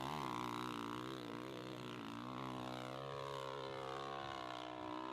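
Motorcycle engine running hard at high revs, its note wavering up and down in pitch as the throttle is worked on the climb.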